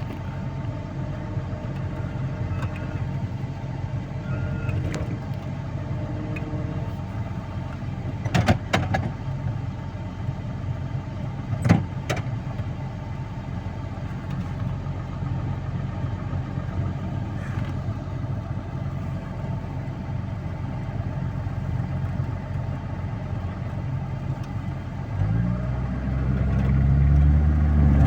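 A vehicle engine running steadily, with a few sharp knocks in the middle. Near the end the engine revs up and gets louder under load.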